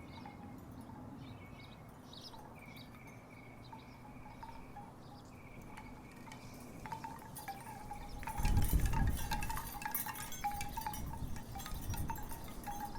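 Wooden tiki wind chimes clacking in the breeze: sparse at first, then knocking together busily from about seven seconds in, as a gust rumbles on the microphone.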